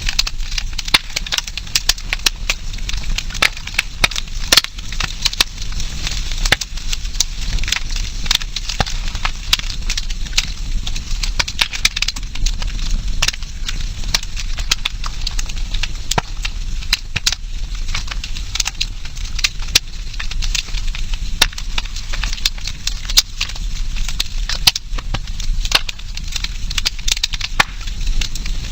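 Campfire of burning wood crackling, with many irregular sharp pops over a steady low rumble.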